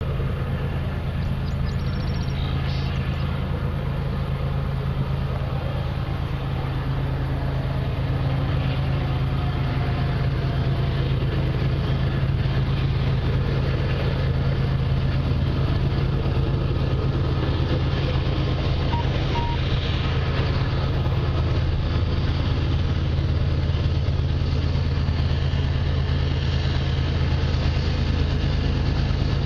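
Diesel locomotive engine running with a steady low drone, growing slightly louder after about eight seconds.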